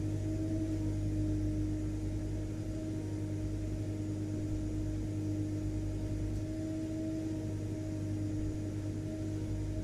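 Vacuum cleaner motor running steadily, a constant drone with a steady hum.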